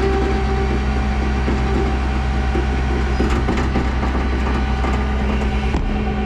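Ford F700 dump truck's engine idling with a lope, put down to a big cam.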